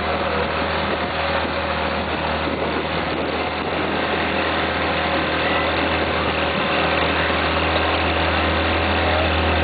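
An engine running steadily with a constant low hum, growing slightly louder over the last few seconds.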